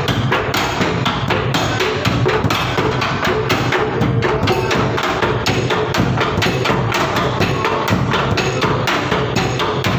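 Mosque bedug drum beaten in a fast, steady rhythm, about three to four sharp strikes a second.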